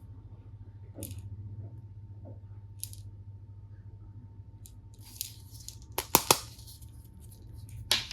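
Plastic toy tool pieces and packaging being handled: scattered light rustles and taps, then two sharp clicks in quick succession about six seconds in, which are the loudest sounds, and another click near the end.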